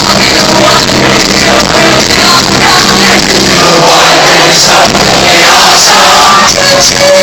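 Live rock band music with singing, recorded loud and distorted on a phone in the audience.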